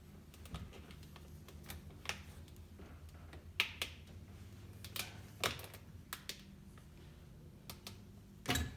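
Irregular light clicks and taps of hand tools and small parts being handled while stripping fittings off a jet ski, about a dozen scattered over several seconds, with a heavier knock near the end.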